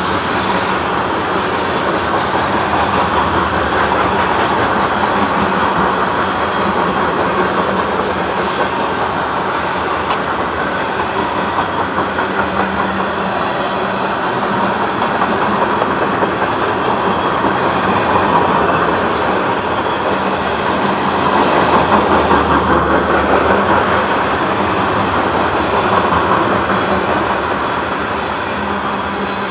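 Tank cars and covered hopper cars of a Norfolk Southern mixed freight train rolling past. The wheels make a steady rumble with a rhythmic clickety-clack that swells and eases a little as the cars go by.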